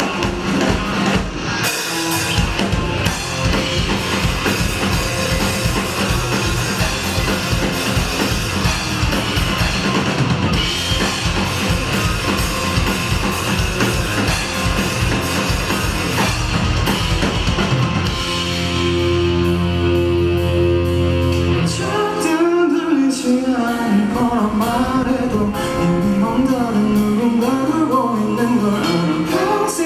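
Live rock band playing: drum kit and guitars drive steadily, then about two-thirds of the way through the drums drop out under a held chord and a voice sings a melody over lighter backing.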